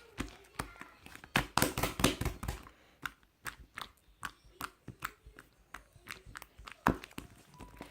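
A run of short, sharp clicks and taps, coming fast and close together between about one and two and a half seconds in, then scattered and sparser.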